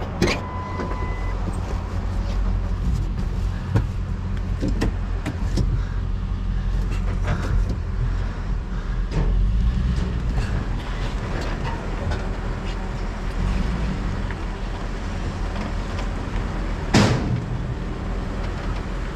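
Pickup truck engine running at low speed while backing up, with scattered light knocks and a single loud bang about 17 seconds in.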